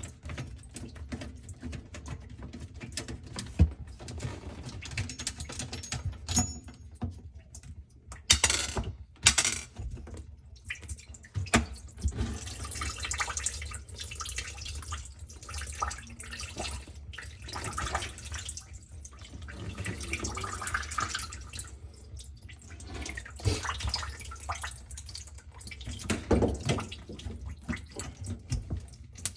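Water running and dripping in a kitchen sink, with scattered knocks and clatter throughout.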